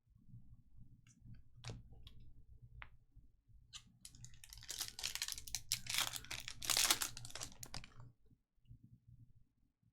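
A few light taps and clicks of trading cards being handled, then about four seconds of loud crinkling and rustling from a foil trading-card pack being handled and opened.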